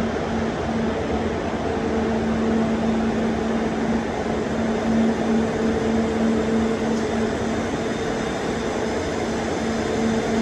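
Industrial plant machinery running: a steady rushing noise with a hum that fades in and out.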